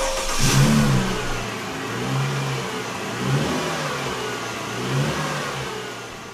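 The engine of a 1970 International Travelall starts about half a second in and is revved several times, rising and falling in pitch.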